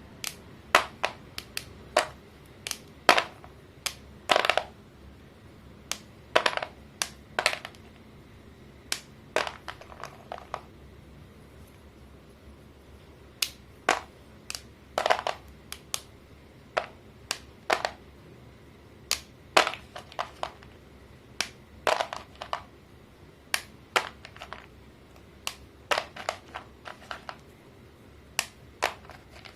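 Sticks of coloured chalk being snapped and crumbled, a string of sharp cracks and short crunches at irregular intervals, with a few brief pauses.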